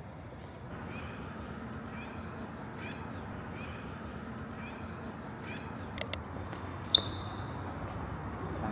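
A bird giving short chirps, repeated every half second or so, over steady outdoor background noise. Two sharp clicks and then a louder, short ringing clink come near the end.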